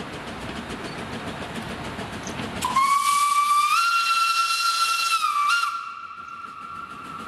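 Steam whistle of a Corpet-Louvet 0-4-0 tank locomotive blowing one long blast of about three seconds, its pitch stepping up partway through and dropping back before it dies to a fainter held tone. Before the whistle there is the steady rumble of the train running.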